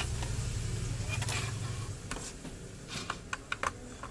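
A steady low hum that stops about two seconds in, followed by a quick series of small sharp clicks and taps of tools on a laptop-style motherboard during bench repair work.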